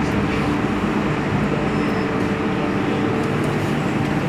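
Steady running noise inside an MTR M-Train carriage as it moves along a station platform: an even rumble of wheels on rail with a low motor hum.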